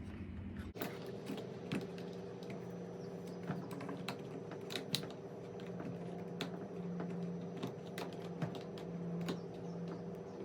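Irregular clicks and light taps of hand tools on a Stihl FS55R string trimmer while its spark plug is being taken out, over a steady low hum.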